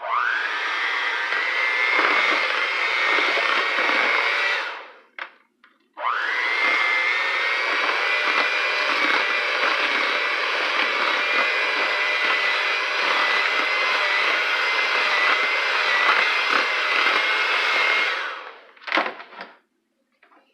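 Electric mixer shredding boiled chicken breasts in a bowl: the motor runs twice, about four seconds and then about twelve, each time whining up to speed and then cutting off. A few short knocks near the end.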